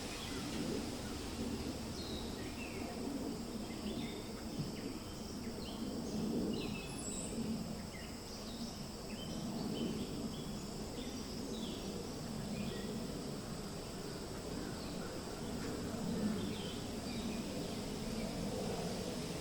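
Forest ambience: steady low wind noise under a scatter of short bird chirps, which come thickest in the first half and thin out later.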